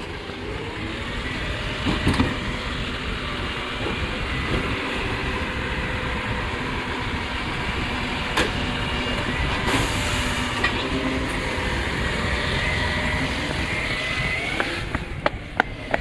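Rubbish truck's diesel engine running, its pitch rising and settling, with a short hiss of air about ten seconds in. A quick run of sharp clicks starts just before the end.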